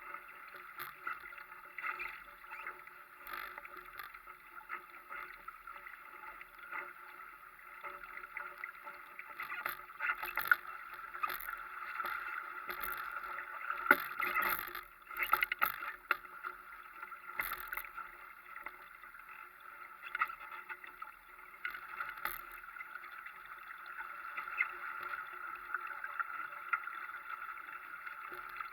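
Water rushing and splashing along a small sailing dinghy's hull, with scattered short knocks and a faint steady hum underneath.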